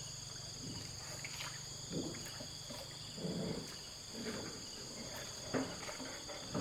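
Steady insect drone of crickets, a few high, even tones held throughout. A few soft, low noises come and go under it, about two, three, four and five and a half seconds in.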